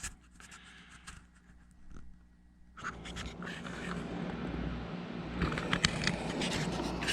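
Quiet at first, then from about three seconds in a steady rustling and scraping with scattered clicks, like handling noise.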